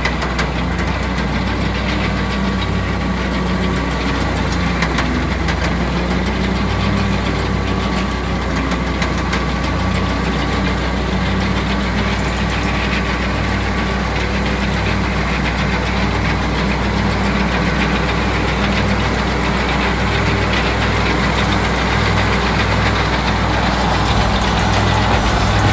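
Kubota tractor's diesel engine running steadily, with a knocking clatter.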